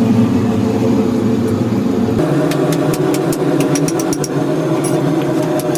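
Workshop machinery running with a steady, engine-like hum. About two seconds in the hum changes abruptly, and a run of sharp clicks follows.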